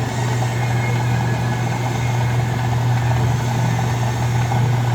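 Drill press motor running with a steady low hum and a constant mechanical whirr.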